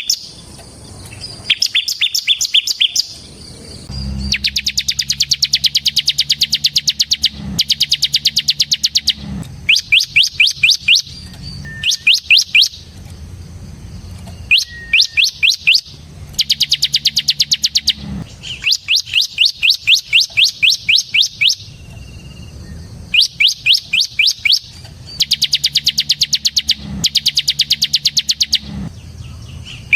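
Bar-winged prinia (ciblek) singing in loud, rapid trills: bursts of fast, repeated, sharp high notes, each burst lasting about one to three seconds, with short pauses between.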